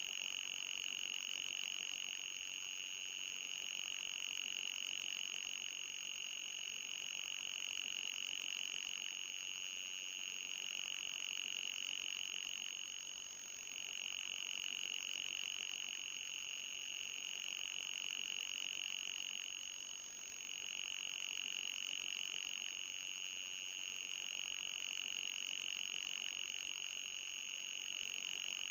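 Electronic anti-mosquito repellent tone: a steady high-pitched tone with a fainter, higher whistle above it, audible rather than truly ultrasonic. It dips briefly twice near the middle.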